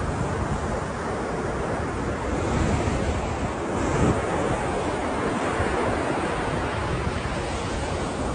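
Ocean surf: waves washing in as a continuous rush, swelling about three to four seconds in, with wind rumbling on the microphone.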